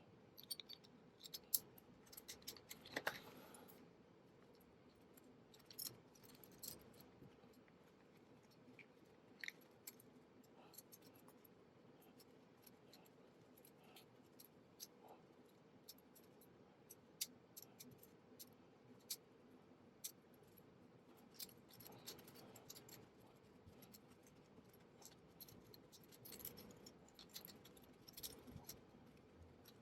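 Faint, scattered clicks and light rustling of small parts and packaging being handled, with a cluster of clicks in the first few seconds and single clicks every second or two after.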